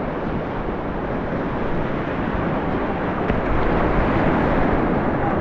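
Steady rushing of river whitewater, a dense noise that swells a little toward the end.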